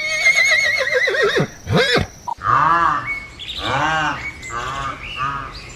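A horse whinnying: a high, quavering call that falls away after about a second and a half, followed by a run of shorter rising-and-falling calls.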